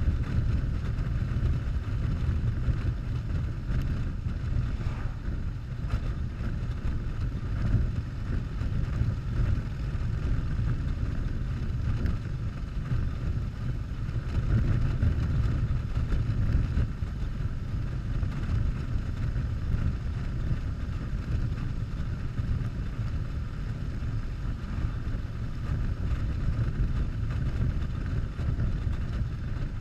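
Harley-Davidson Softail's V-twin engine running at a steady cruise while riding, a continuous low rumble with wind rushing over the microphone.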